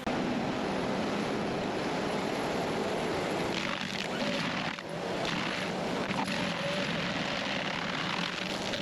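Engine of a heavy stump-removal machine running steadily under load, with a few short knocks a little before the middle.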